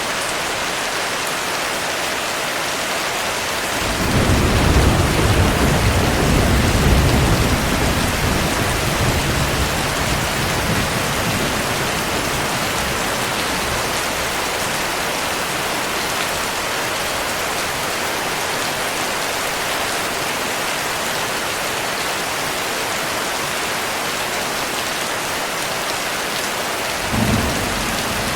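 Steady heavy rain, with a roll of thunder rumbling low about four seconds in and dying away over several seconds, and a shorter low rumble of thunder near the end.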